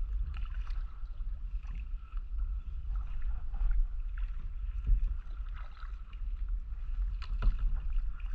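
Kayak paddling: paddle blades dipping and splashing in the water, with a steady low rumble of wind on the microphone and a couple of sharper knocks about five and seven and a half seconds in.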